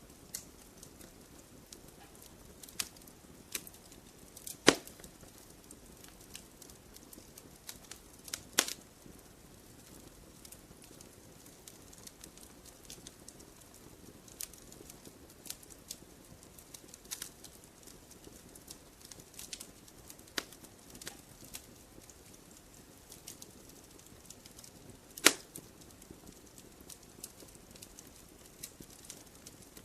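Campfire burning wood, with irregular sharp crackles over a low hiss and a few louder pops, the two loudest about five seconds in and again about twenty-five seconds in.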